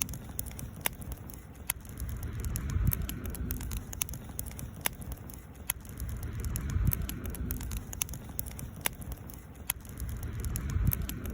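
Wood campfire crackling, with scattered sharp pops and snaps over a low rushing of the flames.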